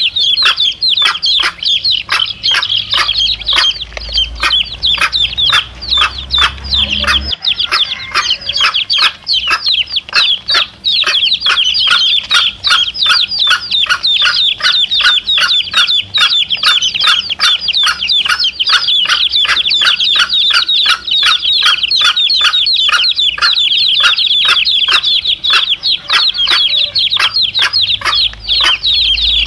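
A brood of chicken chicks peeping continuously, many rapid high-pitched peeps overlapping, with their mother hen clucking. A low hum underneath cuts off suddenly about seven seconds in.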